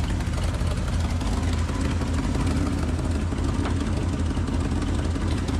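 Classic Ford F-350 dump truck's V8 engine running steadily at a low, even speed.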